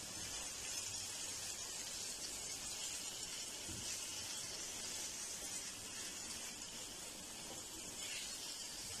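Raw mutton liver cubes sizzling steadily in hot oil in a frying pan.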